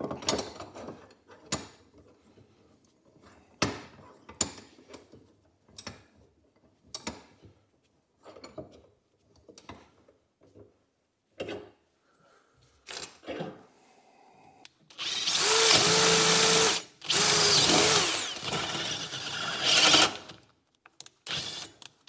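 Scattered clicks and knocks, then about fifteen seconds in an electric drill runs loudly in two stretches of a couple of seconds each, stopping briefly between them. It is drilling out the pin hole of a car door hinge to take a new hinge bolt.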